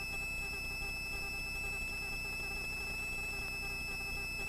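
Helicopter in flight as heard through the headset intercom: a steady low hum with a faint, unchanging high-pitched whine over it.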